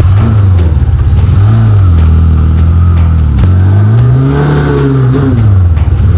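Yamaha XJ600's air-cooled inline-four engine under way, its pitch rising and falling several times as the throttle is opened and closed, with a longer rise and drop about four seconds in. Scattered short clicks and knocks sound over it.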